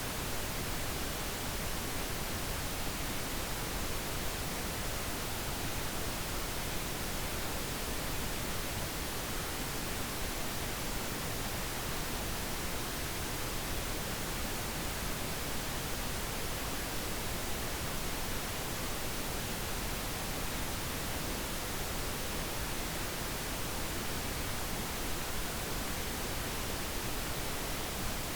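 Steady synthetic pink noise, an even, unchanging hiss with no breaks or events.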